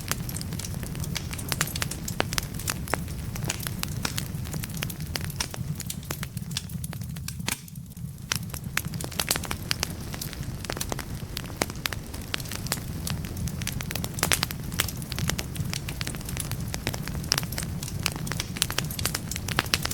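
Firewood burning in a fireplace, crackling with many sharp pops and snaps over a steady low rumble of the flames. It goes briefly quieter a little over seven seconds in.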